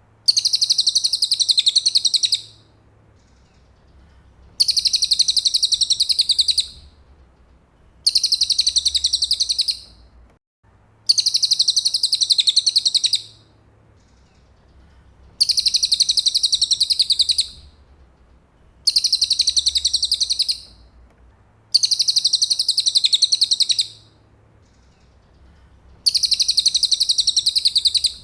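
Cililin song: a high, very fast trill about two seconds long, repeated eight times with pauses of a second or two between.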